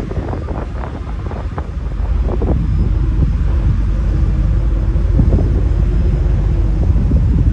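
Strong wind buffeting the microphone over the low rumble of a jet airliner, with a faint steady hum from about three seconds in.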